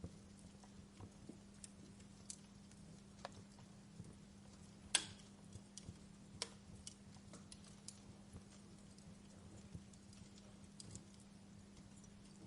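Wood fire in a fireplace crackling: scattered sharp pops and snaps at irregular intervals, the loudest about five seconds in, over a faint steady low hum.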